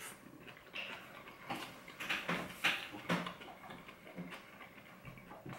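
A person chewing a mouthful of soft braised short rib and greens, picked up closely as irregular wet mouth clicks and smacks.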